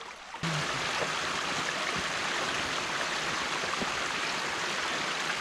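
Stream water rushing steadily through an opened beaver dam, coming in suddenly about half a second in.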